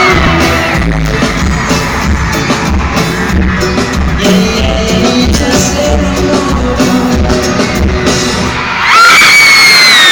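Live pop-band concert heard from the audience: loud music with singing over heavy bass. About nine seconds in the bass drops away and the crowd breaks into loud, high screaming.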